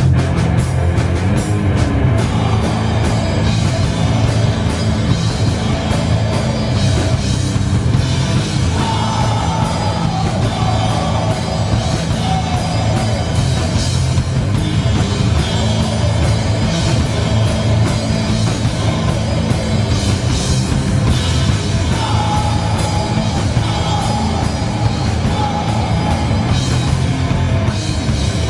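Heavy metal band playing live at full volume: distorted guitars, bass and a pounding drum kit. A higher melodic line falls in pitch twice along the way.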